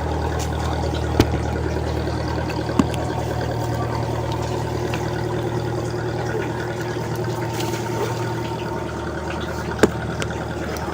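An engine running steadily at a constant pitch, with three sharp clicks: one about a second in, another near three seconds, and a third near the end.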